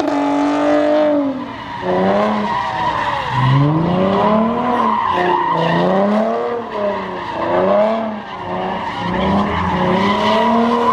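A car engine revving up and falling back again and again, over a steady tire squeal.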